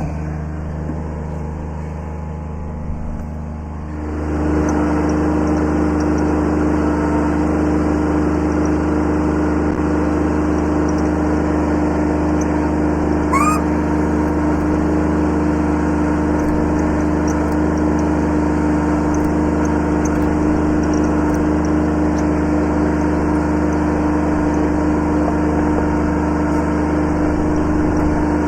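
Kubota B7100 subcompact tractor's three-cylinder diesel running steadily; about four seconds in it gets louder and settles at a higher, even speed. A brief rising squeak about halfway through.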